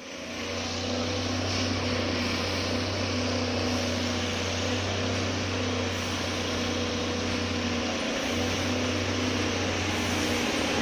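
Electric freight locomotive hauling a train of tank wagons as it approaches along the track. It gives a steady low hum and hiss that fades in at the start and grows slowly louder toward the end.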